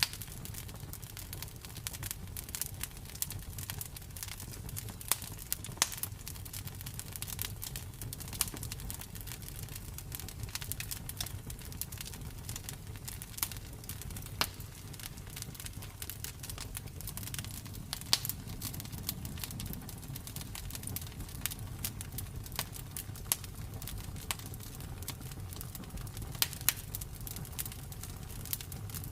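Campfire burning: wood crackling with frequent irregular sharp pops over a low steady rumble.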